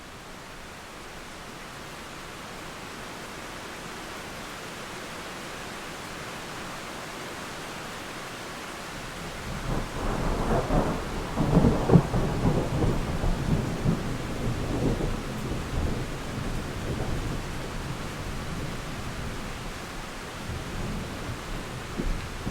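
Steady rain falling, with a long roll of thunder that breaks about nine seconds in, crackles loudest a couple of seconds later, and then rumbles away slowly over the rest of the stretch.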